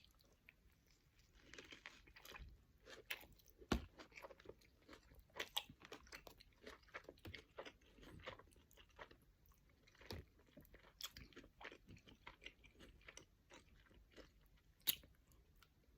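Faint chewing and biting of a cheeseburger: irregular soft crunches and short mouth clicks, close to the microphone.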